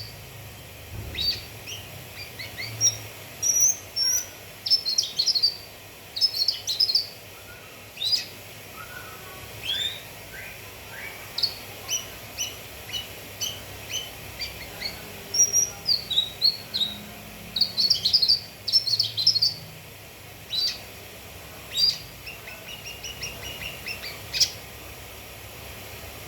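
Cucak kinoi singing: quick bursts of high chirps and short whistled notes, phrase after phrase with brief pauses between, over a faint steady hiss.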